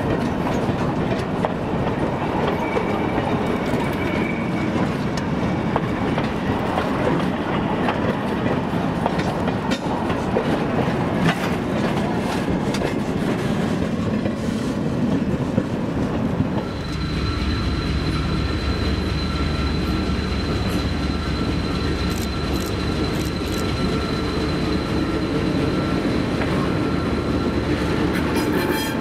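Train of open excursion cars rolling past with steady wheel-on-rail clatter. About two-thirds of the way through it changes to an Alco RS-1 diesel locomotive passing close by, its engine running with a low throb and a thin steady high whine over it.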